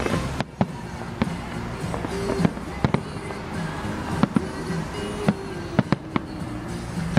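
Fireworks going off: a dozen or so sharp bangs at irregular intervals, some close together, with music underneath.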